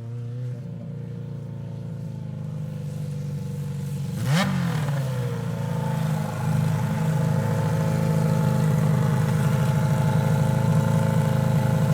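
Suzuki GSX600 inline-four motorcycle engine, swapped into a Honda Odyssey buggy, running under way. About four seconds in there is a sharp crack with a quick rise and fall in engine pitch, then a steady engine note that grows slowly louder.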